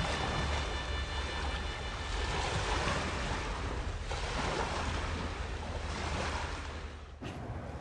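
Ocean surf washing in, swelling and easing in waves, with a low wind rumble, cut off abruptly near the end.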